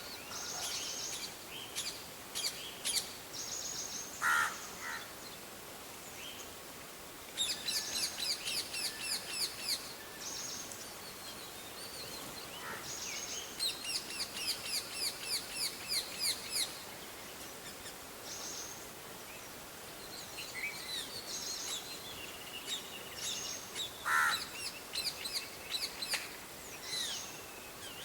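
Several wild birds calling. There are two runs of rapid, high chips at about six a second, each lasting two to three seconds, among other short chirps. A lower, louder call comes twice, once near the start and once near the end.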